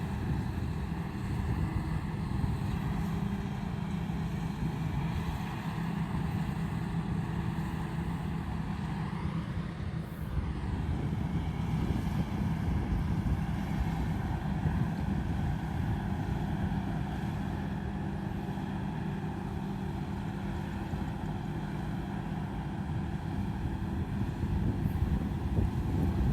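Combine harvester's diesel engine running steadily under load, with a brief dip and sweep in its sound about ten seconds in.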